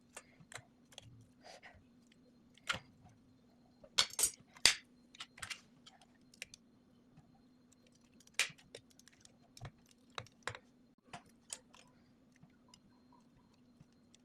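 Irregular light clicks and taps of kitchen utensils being handled, a few sharper knocks among them, over a faint steady hum.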